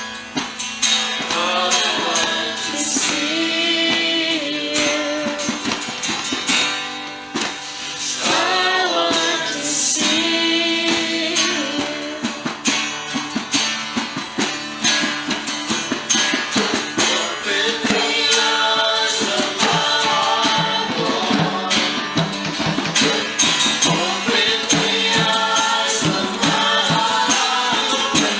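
Christian worship music: a singer with strummed guitar and tambourine, a steady beat throughout.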